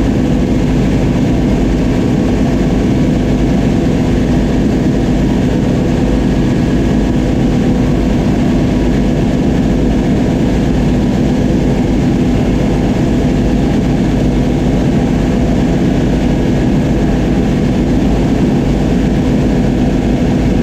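Oliver 7300 combine running steadily under load while cutting wheat, its engine and threshing machinery making a constant loud hum with a steady drone.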